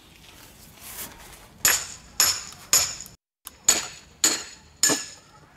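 Six sharp metallic strikes in two quick groups of three, each with a short ringing tail: blows splitting a log in half.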